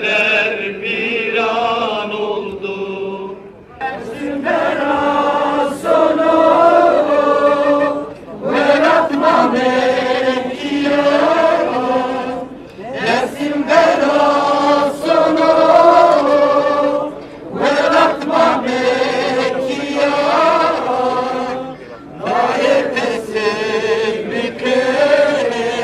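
A crowd of protesters chanting together in unison, in repeated phrases about four to five seconds long with short breaks between them.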